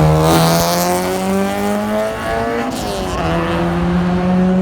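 Car engine revving hard under acceleration, its pitch climbing steadily, with a brief break a little past halfway before it climbs again.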